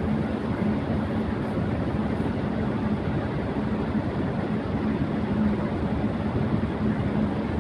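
Electric fan running at high speed: a steady rush of air with a constant low hum underneath.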